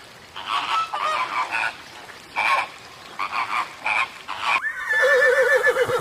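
A flock of swans and mallard ducks calling in short, repeated calls. Near the end it gives way to a horse whinnying, one long call with a wavering pitch.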